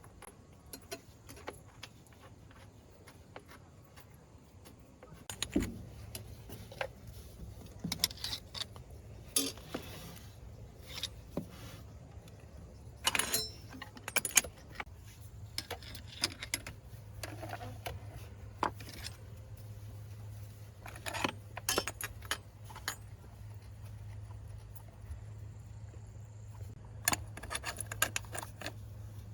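Metal hand tools and parts clinking and clattering in irregular short strikes, over a steady low hum that comes in about five seconds in.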